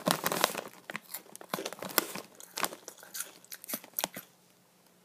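Cheetos being bitten and chewed close up: a run of sharp, crunching crackles that stops about four seconds in.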